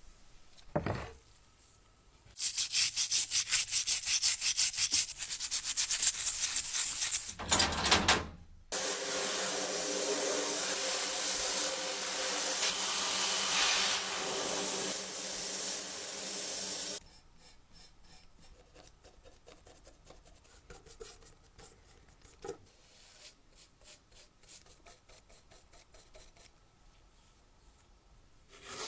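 Quick rhythmic rasping strokes, like sanding or filing a part by hand, for about six seconds. Then a small motor-driven tool runs steadily for about eight seconds with a grinding hiss and a low hum, stops abruptly, and leaves only light scattered handling taps.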